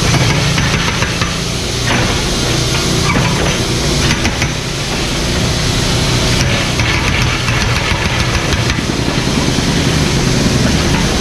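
Mini excavator's diesel engine running steadily, with a noisy hiss over it that swells and drops every few seconds.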